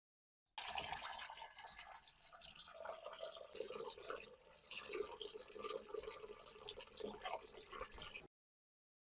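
Water trickling and dripping, with small splashes. It starts about half a second in and cuts off abruptly near the end.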